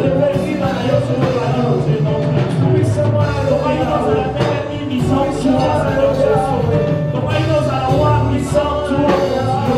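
Worship band playing a song with bass, drum hits and singing voices.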